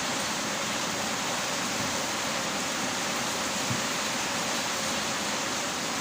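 Heavy rain falling, a steady, even hiss with no let-up, and one soft low thud a little past halfway.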